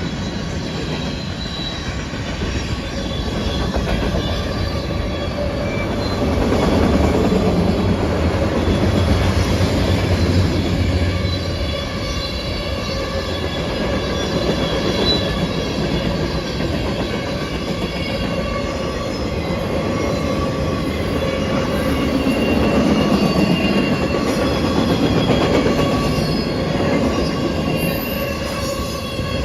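Train rolling past, its steel wheels squealing against the rail in several steady high tones over the rumble of the cars. The rumble swells twice.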